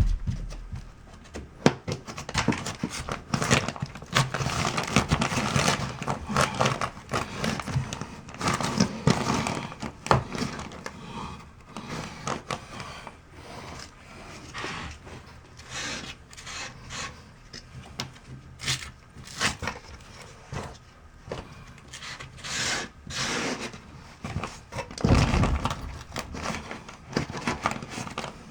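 Irregular scraping and rubbing of hand work on building board and tools, with scattered clicks and knocks and a heavier thud near the end.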